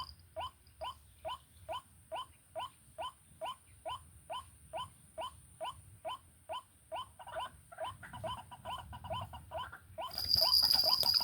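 White-breasted waterhen call: a steady series of short rising notes, about two to three a second. A loud, high-pitched steady buzz comes in near the end.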